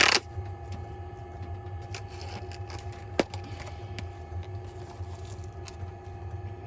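Scattered light clicks and knocks of hands-on food preparation as green onions are cut and added to the pan, with a loud knock at the very start and one sharp click about three seconds in. A steady low hum runs underneath.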